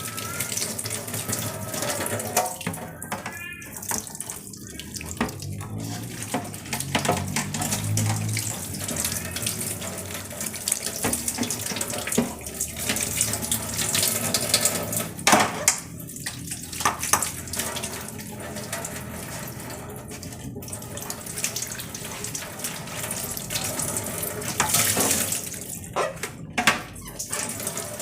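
Water from a tap running into a sink, with occasional knocks and clatter as things are handled under it.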